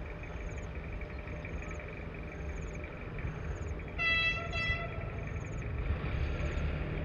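CSR-built diesel-electric locomotive running with a steady low engine rumble as it nears a level crossing, sounding one short horn blast about four seconds in.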